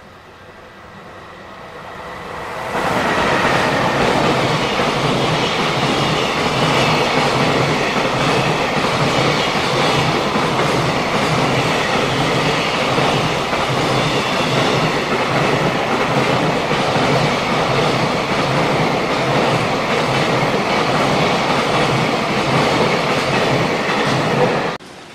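A JR Freight EF210 electric locomotive and its container wagons pass close by. The rumble and wheel clatter of the freight train build over the first few seconds, stay loud and steady while the long line of container wagons goes by, then cut off suddenly near the end.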